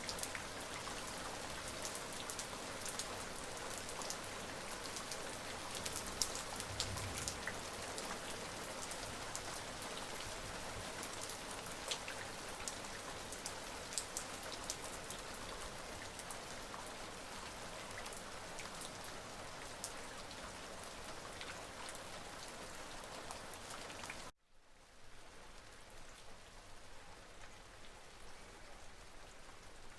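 Steady rain falling, with individual drops ticking sharply on a surface. About 24 seconds in it cuts off abruptly and resumes as quieter, softer rain.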